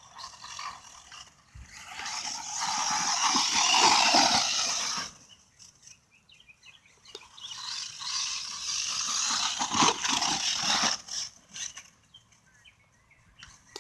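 Redcat MT10e electric RC monster truck driving over rough ground in two bursts of about three seconds each, with quieter gaps between: the motor and drivetrain running under throttle as the truck bounces over the bumps.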